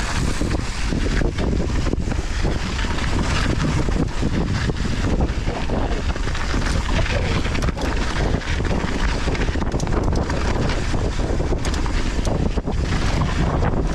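Wind buffeting a GoPro microphone on a fast downhill mountain-bike run, over the steady noise of tyres on loose volcanic soil, with many quick knocks and rattles from the bike over bumps.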